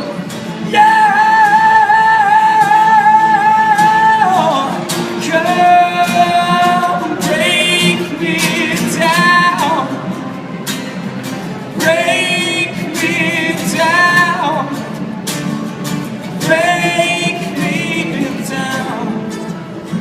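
Male voice singing wordless, drawn-out notes with vibrato over a strummed acoustic guitar: one long held note about a second in, then a string of shorter rising and falling phrases.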